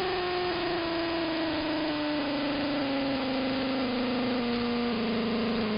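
Electrical interference heard through an AM radio: a steady buzzing whine with a motor-like pitch that steps down in small stages, like a motor shifting gears, then jumps back up near the end. The listener believes it comes from some electromechanical motor rather than a radio transmitter.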